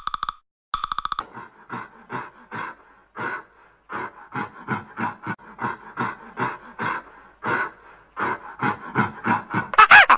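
A great ape's rhythmic series of breathy panting hoots, about two a second, coming faster and louder after about eight seconds. It is preceded by about a second of rapid, evenly pitched woodpecker drumming, and loud rising-and-falling monkey calls break in right at the end.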